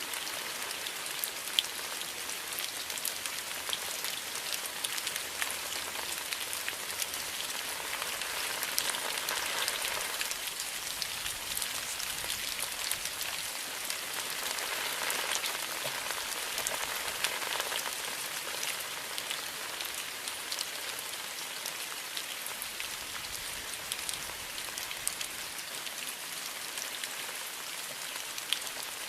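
Steady rain falling, with many close drops ticking individually over a constant hiss; the rain swells a little in places.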